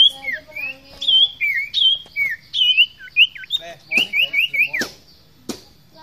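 Common iora (sirtu, cipoh) singing a fast chain of clear whistled notes that slide up and down, with a quick run of five like falling notes about four seconds in. Two sharp clicks come near the end.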